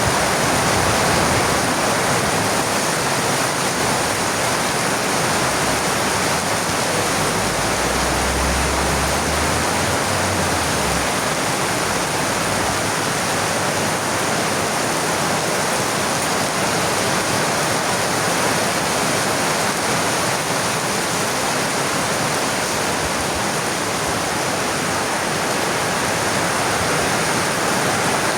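Heavy rain falling, a steady hiss, with a brief low rumble about a third of the way through.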